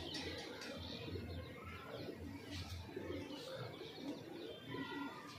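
Faint bird calls and chirps over a low background hum.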